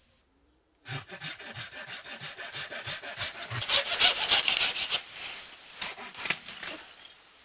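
Hand saw cutting bamboo in rapid back-and-forth strokes. It starts about a second in, grows loudest midway and dies away near the end.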